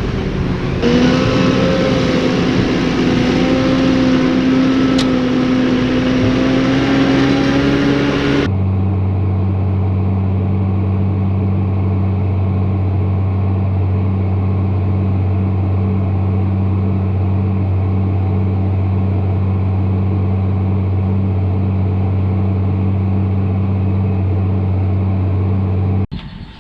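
Tractor engine running steadily. About eight seconds in an abrupt cut changes it to a lower, very even drone, which cuts off shortly before the end.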